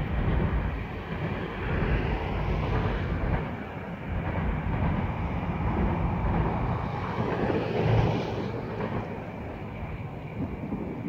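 Low rumble of a freight train going away down the line, swelling briefly about eight seconds in.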